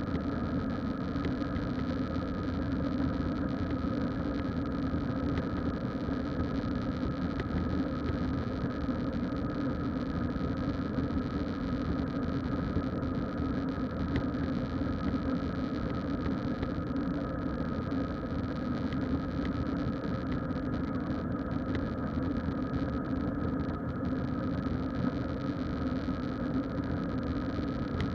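Steady cabin drone of an Airbus A321 with IAE engines, heard from inside the passenger cabin: engine noise and airflow blend into an even hum, with a few steady tones above it.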